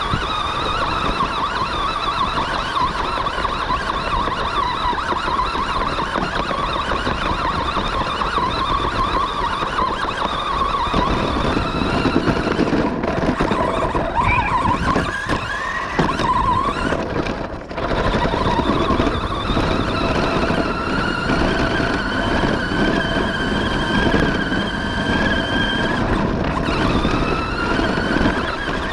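Remote-controlled monster truck's motor whining as it drives, its pitch rising and falling with speed over a steady rushing noise. The motor eases off briefly a little after halfway, then speeds up again.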